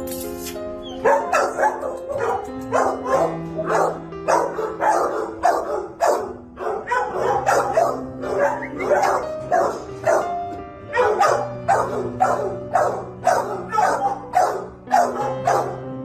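Dog barking over and over in quick succession, starting about a second in, over background music with long held notes.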